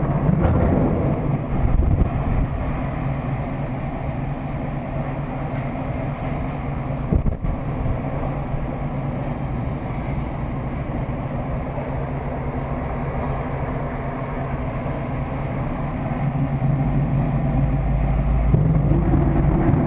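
Steady low rumble of a vehicle in motion, with a single knock about seven seconds in and the rumble growing louder near the end.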